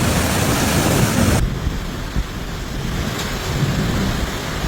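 Storm noise from amateur storm footage: a loud, full hiss that cuts off abruptly about a second and a half in. It gives way to lower, rumbling wind noise on the microphone, with one brief knock.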